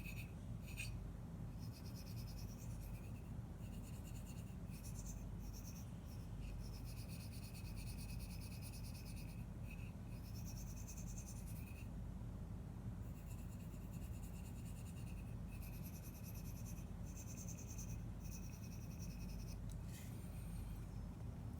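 The S30V steel blade of a Spyderco Lil Native knife is drawn in repeated strokes across a sharpening stone. Each stroke is a dry scrape lasting a second or two, with short pauses between them.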